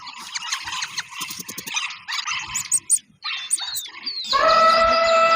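An animal's sounds: scuffling with a quick series of low grunting pulses, then, about four seconds in, a loud, long drawn-out call begins.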